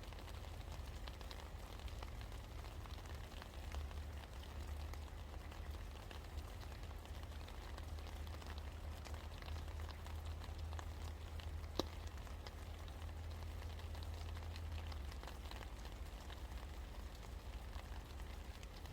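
Steady rain falling, with many small drops ticking and one sharper drop tap about two-thirds of the way through, over a steady low rumble.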